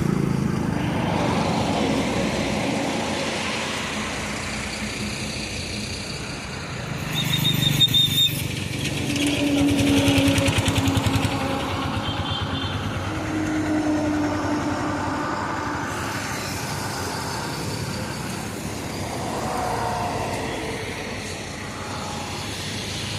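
Road vehicle noise: engines running in traffic. A short high-pitched tone about eight seconds in is the loudest moment, and a few shorter, lower tones sound later.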